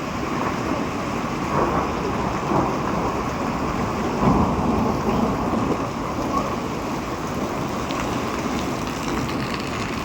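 Heavy rain falling steadily, with a few brief louder swells, the strongest about four seconds in.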